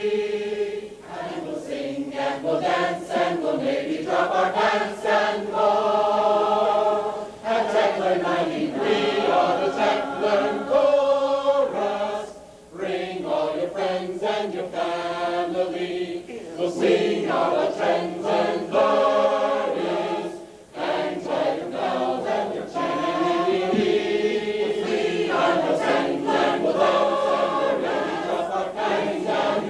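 A group of voices singing a song together, with short breaks between phrases.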